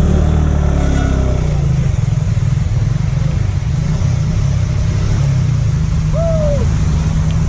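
Motorcycle engine running steadily, under an even hiss of wind and rain noise.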